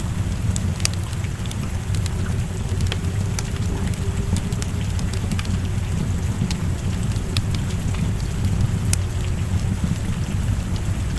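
Steady rain with a low rumble underneath, dotted with short sharp pops and crackles from a wood fire.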